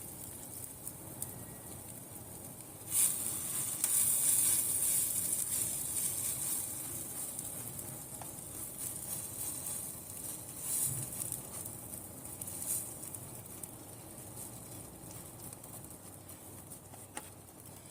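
Buttered bread sizzling on the hot, oil-greased plates of a sandwich toaster: the sizzle starts abruptly about three seconds in and slowly fades, with a few faint clicks.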